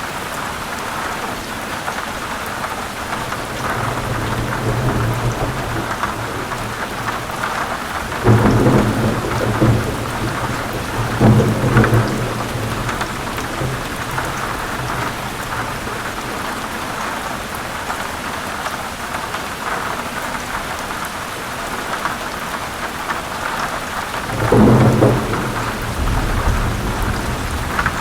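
Steady heavy rain with rolls of thunder, deep rumbles swelling up several times, about eight, eleven and twenty-four seconds in.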